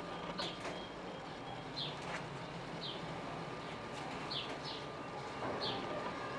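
A small bird chirping: six short, high, slightly falling chirps, roughly one a second, over a faint steady background.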